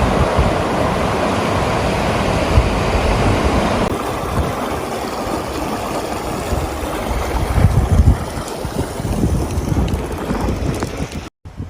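Steady rush of floodwater with wind gusting on the microphone in low rumbles; the sound cuts out for a moment near the end.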